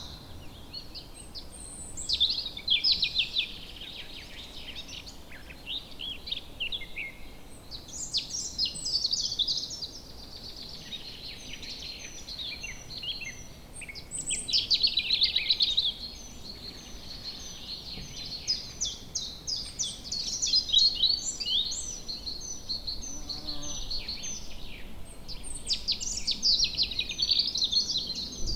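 Several songbirds singing in woodland: overlapping high trills and chirps, with louder song phrases every five or six seconds and runs of short high notes in between, over a faint steady background hiss.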